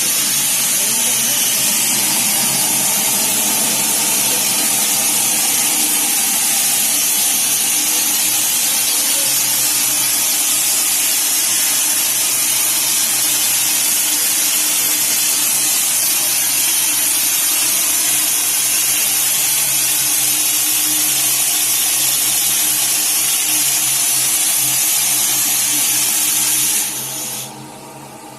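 Steam boiler venting steam with a loud, steady hiss and a low hum beneath it. The steam cuts off suddenly near the end.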